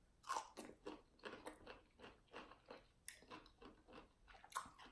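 Quiet biting and chewing of a ranch-dipped pickle spear: a string of short, wet crunches, a few a second, with sharper crunches about three seconds in and again near the end.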